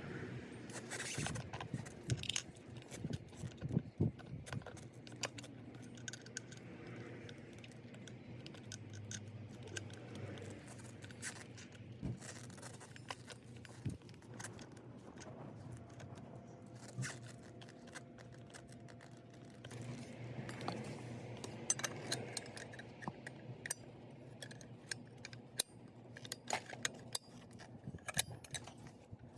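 Metal tools and small metal parts clinking and scraping now and then, as in hand work on a scooter's clutch and drive, over a faint low hum.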